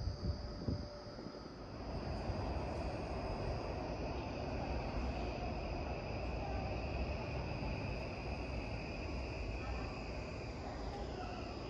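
Keikyu train running through the station: a low rumble with a steady high whine that swells about two seconds in and fades near the end, over a constant thin high-pitched chirr.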